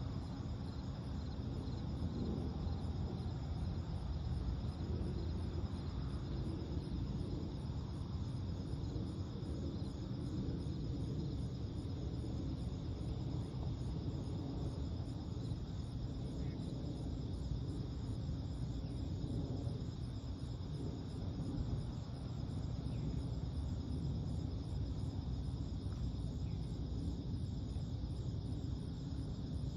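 Night insects, crickets among them, chirping and trilling steadily in a fast, even pulse. Beneath them runs a louder, steady low rumble of background noise.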